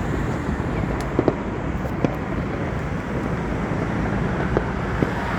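Steady outdoor rumble of expressway traffic and wind on the microphone, with a few short sharp pops scattered through it.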